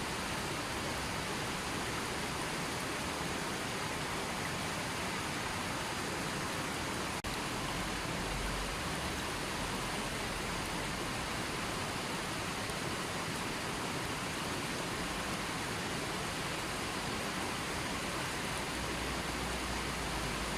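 River water flowing in a steady, continuous rush, with one very brief dropout about seven seconds in.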